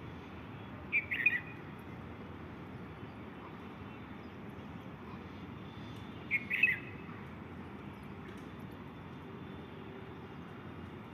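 A bird calling twice, about five seconds apart, each call a quick burst of a few chirps, over a steady background hiss.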